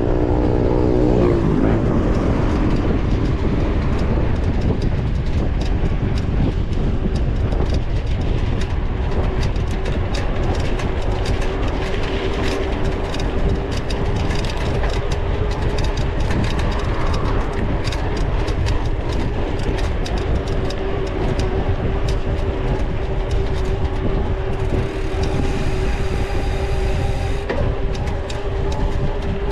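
Mountain bike ridden over rough ground, heard from a camera mounted on the bike: a continuous rumble with wind noise and constant rattling clicks from the bike and mount, and a steady hum through the second half.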